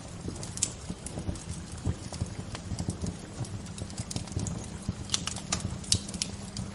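Bonfire crackling: irregular sharp pops and snaps over a steady low rumble, with a quick run of louder snaps near the end.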